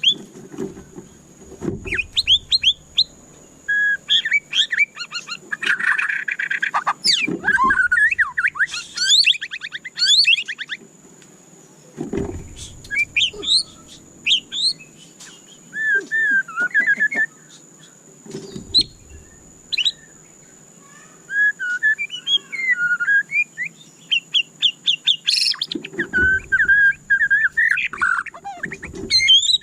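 White-rumped shama singing: varied phrases of whistles, rapid trills and pitch glides in bursts with short pauses, with a few dull low thumps between phrases and a faint steady high whine behind.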